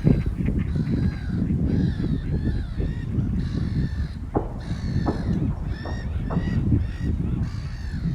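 Birds calling over and over in quick succession, short pitched calls overlapping one another, over a steady low rumbling noise, with a few sharp clicks in the second half.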